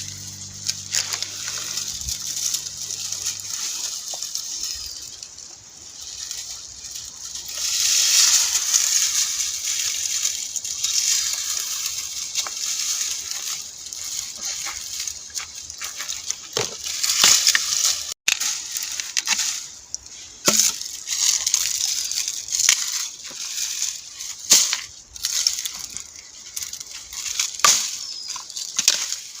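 Water sloshing and splashing, with scattered knocks and clatters.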